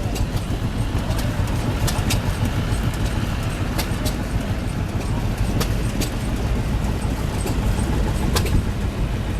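An engine running steadily at low speed, a constant low rumble, with sharp clicks scattered through it.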